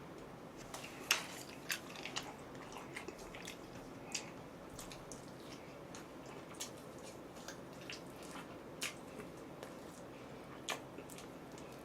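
A person chewing and biting fried chicken close to the microphone, making scattered, irregular wet clicks.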